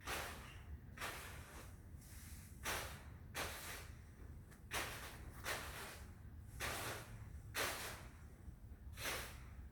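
Yard rake being dragged across a roof, its tines scraping the roofing in about ten separate strokes, roughly one a second.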